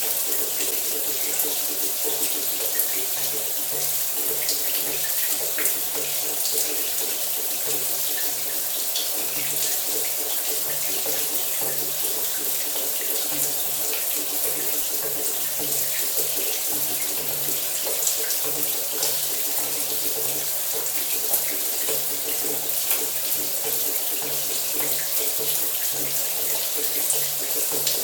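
Shower water running steadily, a dense even hiss of spray with small splashes and patters scattered through it.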